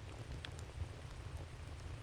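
Wood campfire crackling: a few sparse, sharp pops and snaps over a low, steady rumble.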